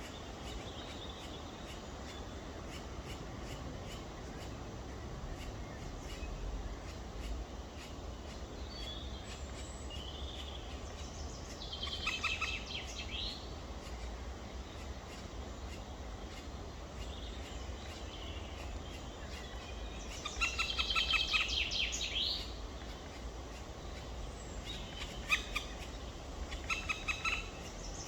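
Black woodpecker chicks calling in rapid trains of short, high-pitched notes, in three bouts: one about halfway through, and two louder ones in the last third. A steady low rumble runs underneath.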